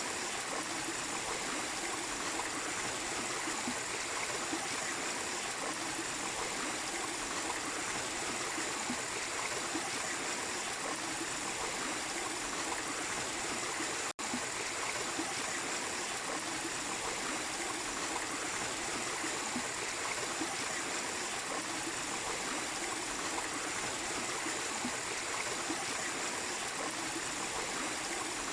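Small waterfall and stream water running steadily, broken by a split-second gap in the sound about halfway through.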